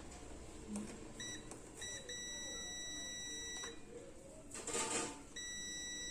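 Multimeter continuity beeper sounding as the probes touch the pins of a speaker control cable. There are two short beeps, then a long steady high beep of about a second and a half, then another beep of about a second near the end; the beeps mean the wires have continuity. Between the long beep and the last there is a brief rustling scrape, the loudest moment.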